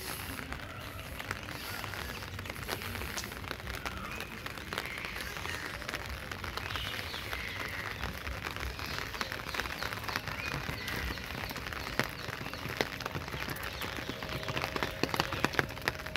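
Steady rain falling on wet paving and ground, with many separate drop hits close by.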